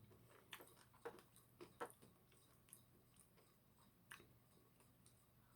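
Faint chewing and mouth smacks of a person eating fried okra: a few soft, short clicks scattered through a near-quiet stretch.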